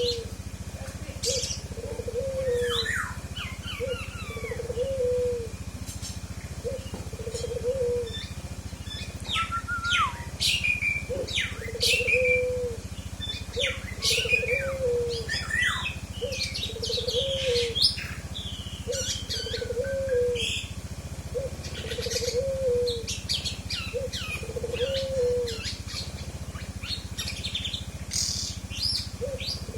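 Birdsong: a kepodang hutan (an oriole) singing a varied 'isian' song, its learned repertoire of other birds' phrases, in quick high chirps, trills and falling notes. Under it, a short low call repeats about every one and a half to two seconds.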